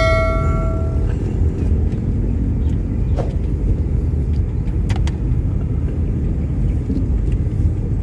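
Steady low rumble of a vehicle on the move. A ringing metallic tone fades out in the first second, and a few faint clicks follow.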